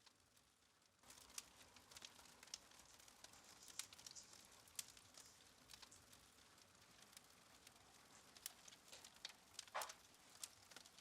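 Wood fire crackling faintly: scattered small pops and ticks over a soft hiss, with one slightly louder pop near the end.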